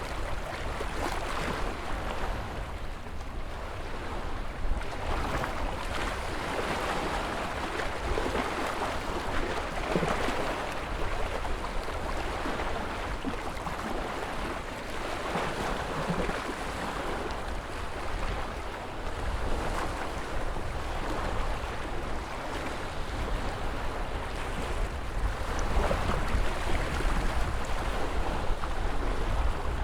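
Ocean waves breaking and washing ashore, swelling and easing every few seconds over a steady low rumble.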